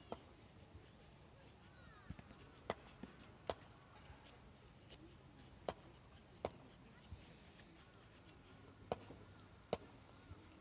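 Faint, sharp clicks at irregular intervals, about one a second, over a quiet background.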